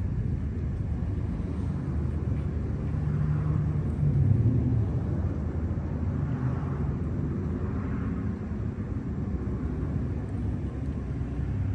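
Low, steady engine rumble, swelling a little about three to five seconds in.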